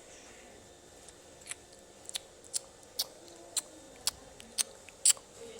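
A run of short, sharp, high-pitched clicks, about two a second, starting about a second and a half in. The loudest comes near the end.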